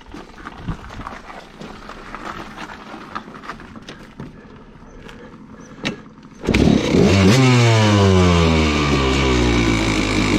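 Old dirt bike engine, quiet at first, then running loud and hard from about six and a half seconds in as the bike is ridden, its pitch sliding down and then rising again near the end.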